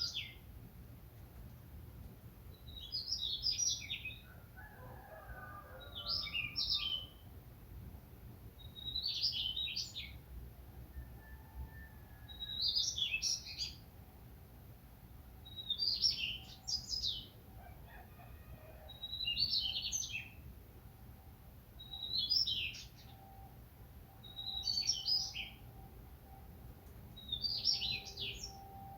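A songbird singing the same short, high, chirping phrase over and over, about one phrase every three seconds, each lasting about a second.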